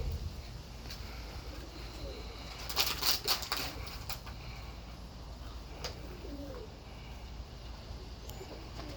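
Wind rumbling on the microphone, with pigeons cooing faintly and a short burst of clicking and rustling about three seconds in.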